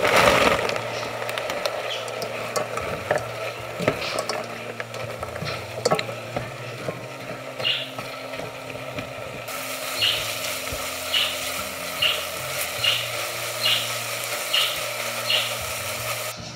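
Food sizzling in a hot pan or pot while it is stirred, with a louder burst of sizzle right at the start. About halfway in, short regular scrapes of the stirring spoon begin, roughly one a second.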